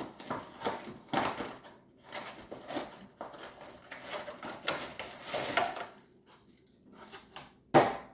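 A frozen TV dinner's cardboard box being opened and the meal handled: irregular tearing, rustling and scraping with small knocks, and a sharper knock near the end.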